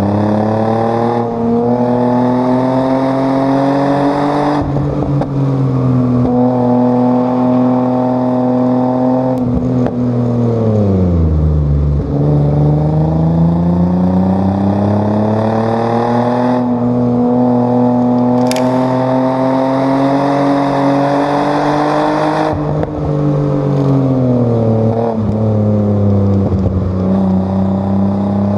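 Chevrolet Omega 3.0's straight-six engine run hard on track, its revs climbing and dropping repeatedly, with a deep fall in pitch about eleven seconds in before it climbs again.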